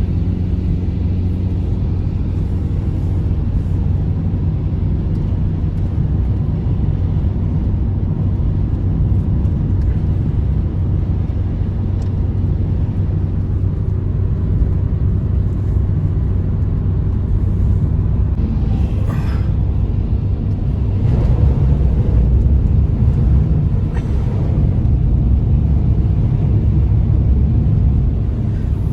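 Blizzard wind making a loud, steady low rumble that grows a little stronger after about twenty seconds.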